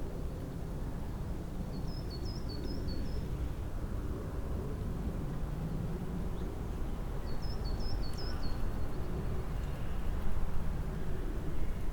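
A songbird sings two short phrases, each a quick run of high paired chirps lasting about a second and a half, about 2 seconds and 7 seconds in. Under it runs a steady low rumble.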